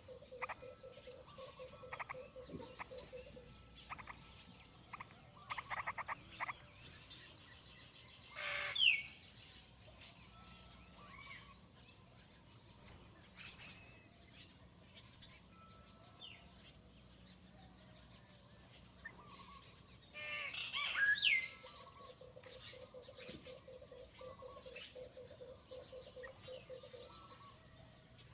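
Birds chirping in short calls with quick falling notes, loudest about 9 and 21 seconds in, among short trains of rapid pulsed croaking calls and a faint steady high whine.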